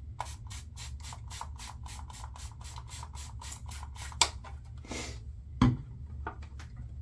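Double-edge safety razor scraping over lathered stubble in quick, even short strokes, about five a second, for about four seconds. Then a few separate knocks and one loud thump.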